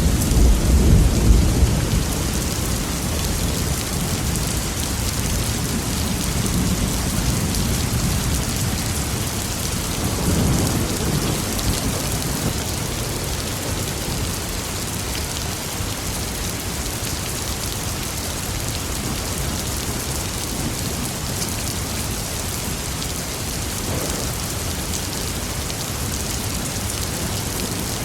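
Steady heavy rain with rolling thunder: a low rumble in the first couple of seconds, another around ten seconds in, then rain alone.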